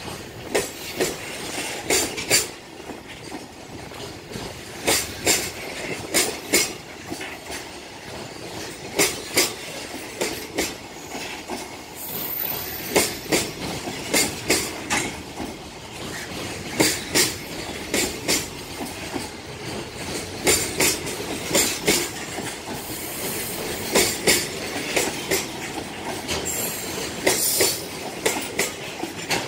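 Freight train of container flatcars (Koki 104 and Koki 107 wagons) rolling past, with a steady rolling rumble. The wheels click over the rail joints in quick pairs, every second or so.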